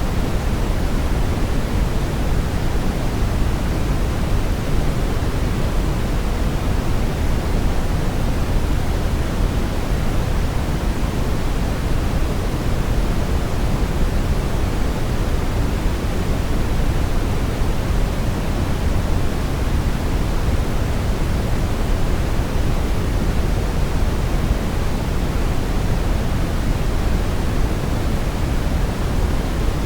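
Brown noise: a steady, even rushing hiss with most of its weight in the deep low end, falling away toward the highs.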